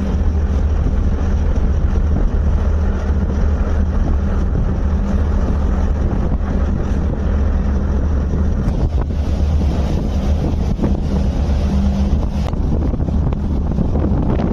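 Marine engine running with a steady low hum, with wind buffeting the microphone.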